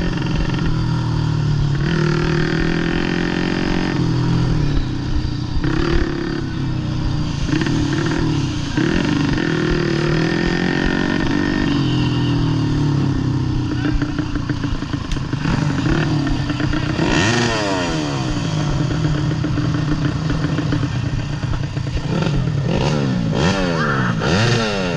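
Modified underbone motorcycle engine heard on board during a motocross race, its pitch repeatedly rising and falling as it revs up and drops back, with sharp swoops near the middle and again near the end.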